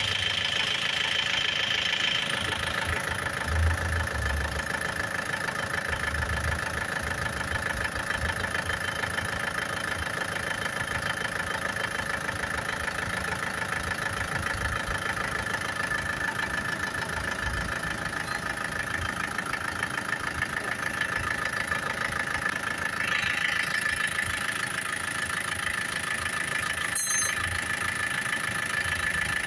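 A 2013 Isuzu Sportivo's engine idling steadily, with a constant high-pitched whine over the running.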